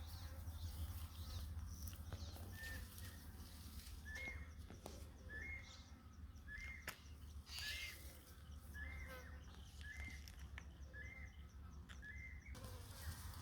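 A bird calling faintly, a short chirp that rises and falls, repeated about once a second some nine times.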